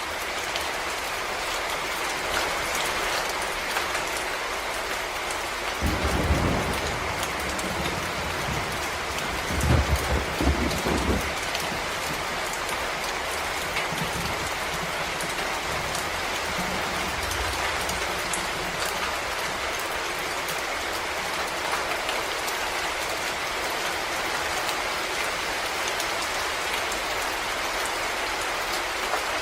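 Steady rain falling on forest leaves and ground, an even hiss of drops. Two low rumbles rise under it, about six seconds in and again around ten seconds in.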